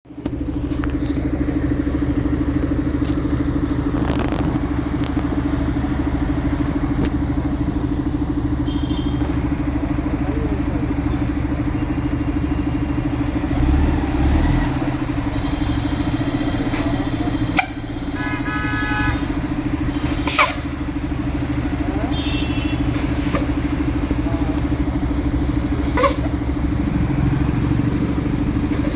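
Engine of a Mahindra army truck running steadily with a constant low drone. There are a few sharp clicks or knocks along the way, and a short pitched tone lasting over a second about eighteen seconds in.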